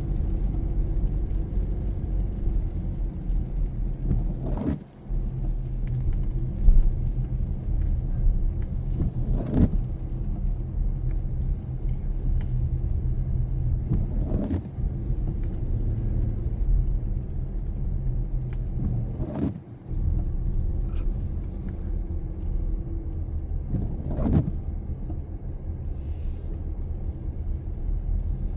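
Car on a rainy drive: a steady low road rumble, with the windshield wipers sweeping the glass about once every five seconds.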